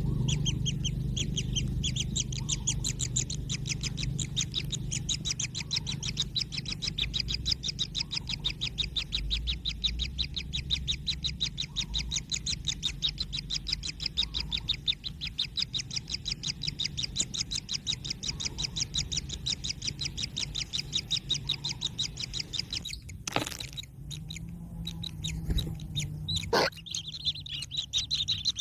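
Kingfisher nestlings giving a rapid, continuous begging call of many short high notes a second. It breaks off for a few seconds near the end, where two sharp knocks are heard, then starts again.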